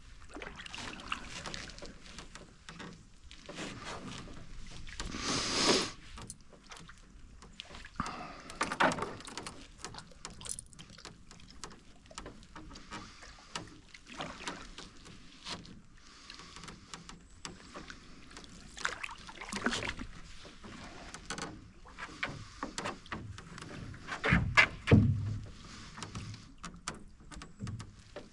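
Canoe paddle strokes: a paddle dipping and pulling through the water with splashes and drips every few seconds, one stroke near the end louder, with a low thud.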